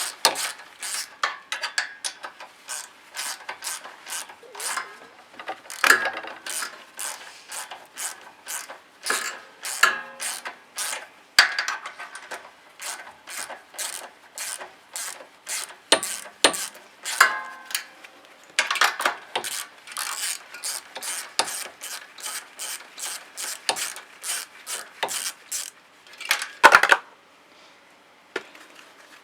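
Socket ratchet wrench clicking in quick runs with short pauses as it undoes the 10 mm screws of a small four-stroke engine's valve cover, with one louder knock near the end.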